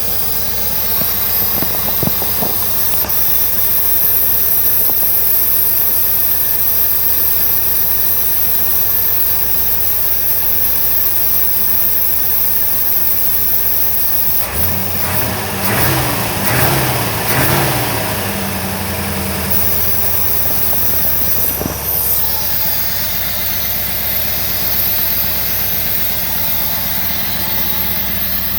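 1968 Chevrolet C10's 283 small-block V8 running at idle after a cold start. Its pitch shifts briefly about halfway through, then settles back to a steady idle.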